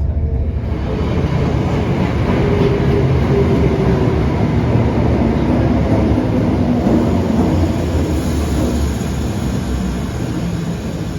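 Electric passenger train running close by: a loud, steady rumble of wheels and motors that swells about a second in and eases off near the end.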